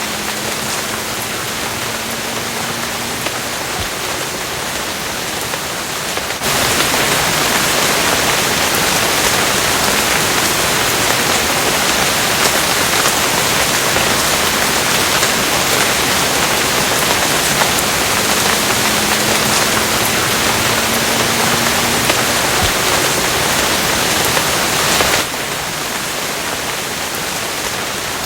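Steady, dense rain hiss. About a quarter of the way in it abruptly gets louder, and it drops back to the softer level just as suddenly near the end.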